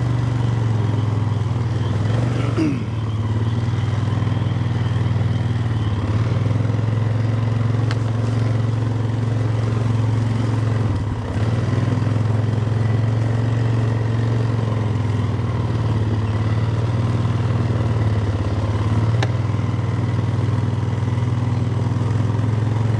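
Four-wheeler (ATV) engine running steadily while riding, with a brief dip in level about eleven seconds in.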